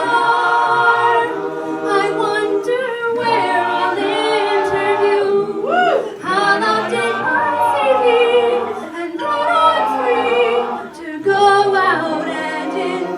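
A group of voices singing a cappella, holding sustained chords that change every second or two, with a brief pitch swoop about six seconds in.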